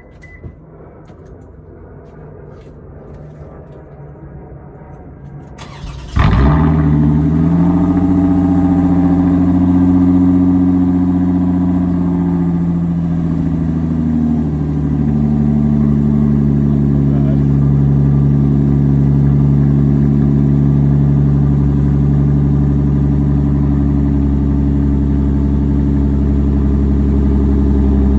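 2006 Toyota Avalon's 3.5-litre V6, straight through with muffler and resonator removed, cold-started after sitting over half a day: a brief crank about six seconds in, then it catches with a flare and settles into a loud, steady fast idle. The idle steps down a little about halfway through.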